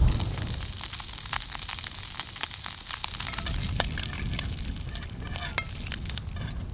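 Food sizzling in a frying pan over the camp stove or fire: a steady hiss with many small crackling pops.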